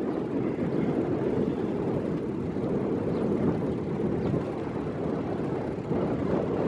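Steady wind noise buffeting the microphone: a dull, even rush with no breaks.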